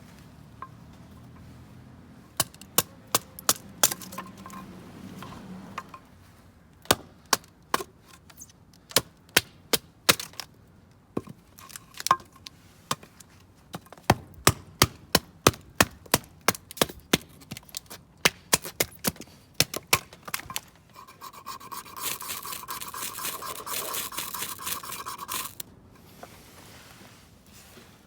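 Firewood being chopped or split into kindling: a long run of sharp wooden knocks and cracks, several a second at times. Near the end comes a few seconds of steady scraping hiss.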